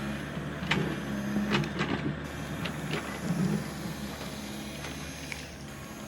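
Small electric motors of a toy remote-control excavator whirring steadily, with a few sharp clicks in the first three seconds.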